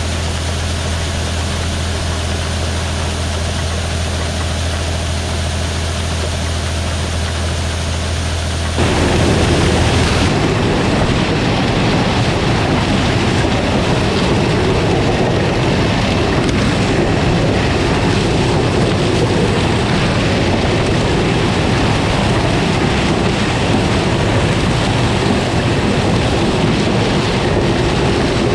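A combine harvester running: a steady engine drone with even tones, which about nine seconds in gives way abruptly to a louder, rougher rumble.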